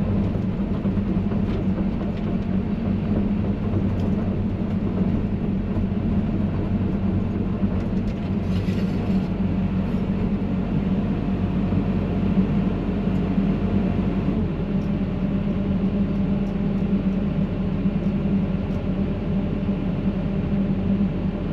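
Excavator diesel engine running steadily, heard from inside the cab as an even low drone, with a short hiss about nine seconds in and a few light clicks.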